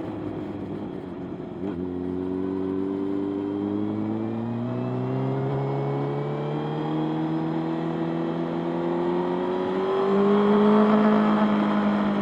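Motorcycle engine under way, accelerating, its pitch climbing steadily. About ten seconds in the note drops and grows louder as it shifts up a gear.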